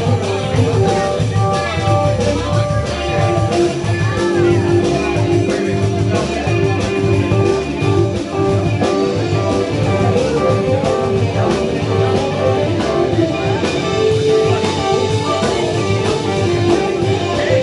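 Rock band playing: a sustained, melodic electric guitar line over bass and drums, with no break.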